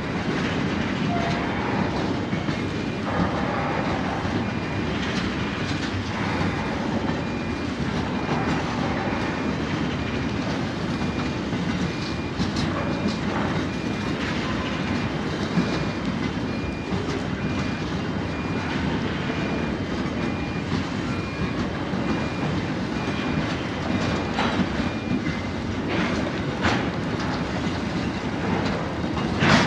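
Freight train of narrow-gauge phosphate hopper wagons rolling past at a steady speed: a continuous rumble of wheels on rail with irregular clicks and knocks from the wheels and couplings.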